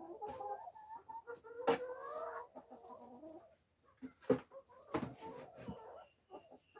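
Backyard hens clucking and calling, with a few sharp knocks or pecks mixed in.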